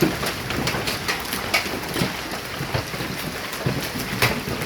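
Large hailstones pelting down: a steady hiss full of frequent, irregular sharp knocks as the stones strike hard surfaces.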